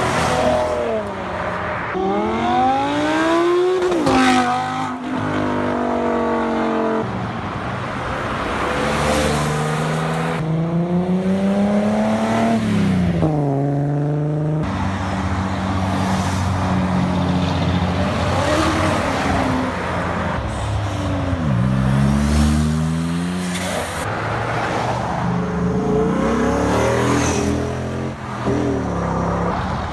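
Car engines accelerating hard, the pitch climbing and then dropping back again and again as they shift up through the gears.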